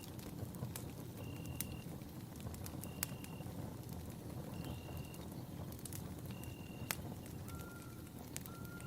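Campfire burning: wood crackling with scattered sharp pops over a low rumble of flames. A short, high, even note repeats about every second and a half, and a lower note sounds twice near the end.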